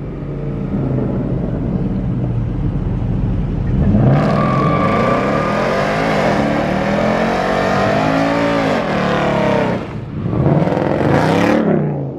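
A car engine revving hard during a burnout, its pitch climbing and falling repeatedly, with tyres squealing and spinning from about four seconds in. Near the end the engine revs up sharply once more, then drops away.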